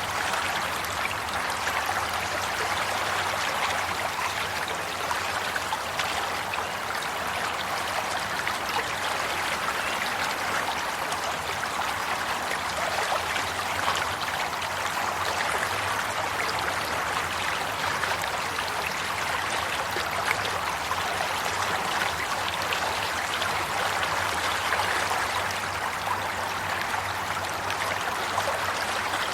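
Flowing water of a stream, a steady babbling and trickling rush that holds evenly without a break.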